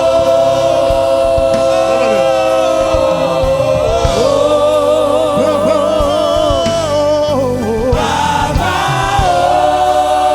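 Gospel choir singing, holding long sustained notes, with a voice line moving above them from about four to seven seconds in.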